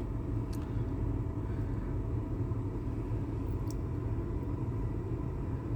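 Steady low engine rumble of an idling motor vehicle, unchanging, with a faint steady hum on top and a couple of light clicks.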